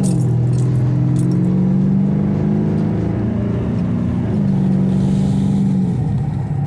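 Car engine running steadily while driving, its pitch stepping down just after the start, up a little past the middle and down again near the end.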